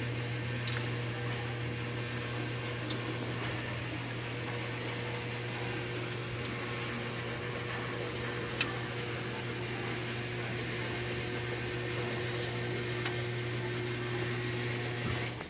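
1984 Toyota Land Cruiser's six-cylinder engine idling steadily, an even hum that stops abruptly near the end.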